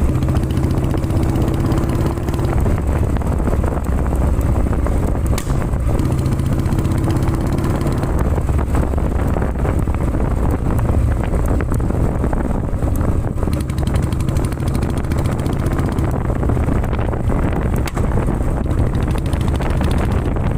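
Royal Enfield Classic 350's single-cylinder engine running steadily through its exhaust, with occasional faint sharp pops.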